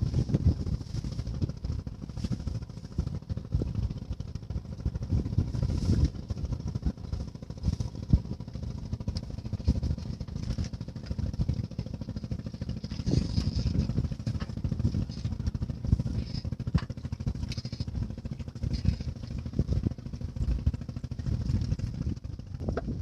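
Strong wind buffeting the microphone: an uneven, gusting low rumble.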